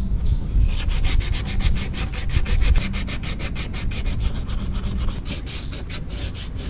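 Sandpaper rubbed by hand over a painted metal engine part in rapid, even back-and-forth strokes, about six a second, taking off paint lifted by spilled coolant.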